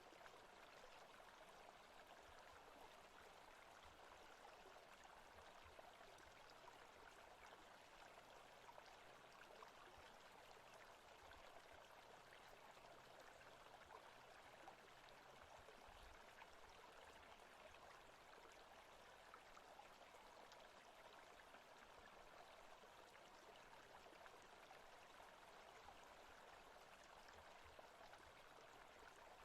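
Faint, steady ambient forest-sounds recording of running stream water.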